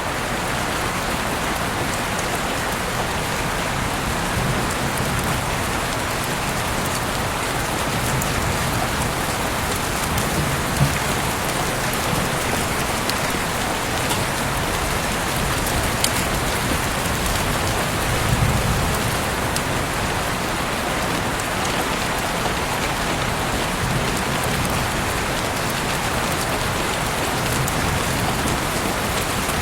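Heavy rain falling steadily outside an open window, an even dense patter with a few sharper drop ticks.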